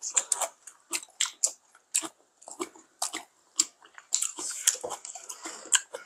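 People chewing and crunching food close to clip-on microphones: a string of irregular wet clicks and crackles, several a second.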